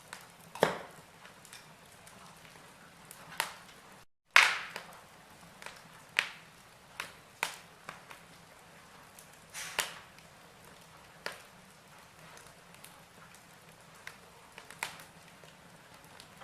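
Wood fire of burning logs in a fireplace crackling: irregular sharp pops and snaps over a soft hiss, the loudest pop just after a split-second gap of silence about four seconds in.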